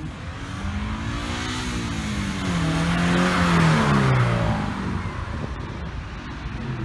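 A car driving past close by, its engine note growing louder as it approaches, loudest about three to four seconds in, then dropping in pitch and fading as it goes away.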